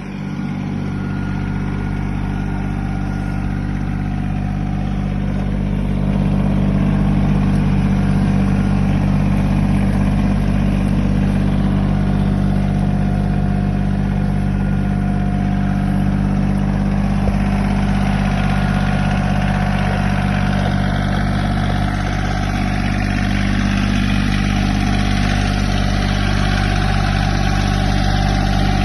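Kioti tractor's diesel engine running steadily, getting louder about six seconds in and then holding that level.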